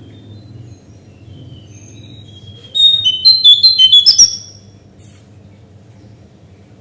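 Cingcoang coklat (lesser shortwing) singing: one loud burst of rapid, high, stepping notes lasting about a second and a half, ending in a rising note. A faint low hum runs underneath.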